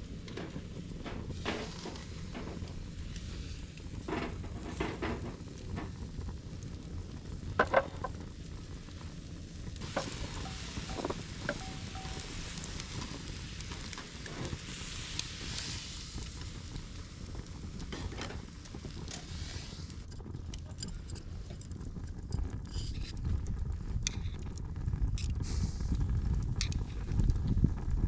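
Food sizzling as it cooks, with scattered clicks and knocks of cooking utensils and a low steady rumble underneath; the sizzle is strongest from about a third of the way in to two-thirds through.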